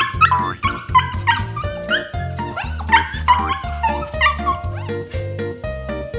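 Background music with a steady beat, with a Shiba Inu's short high yips and whines over it.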